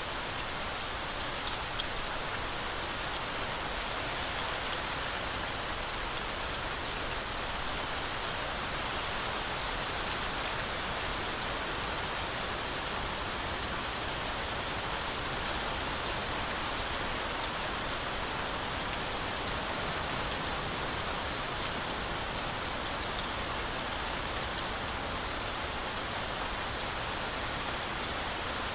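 Heavy rain falling steadily through forest trees, a constant dense hiss of drops with a few faint individual drop ticks.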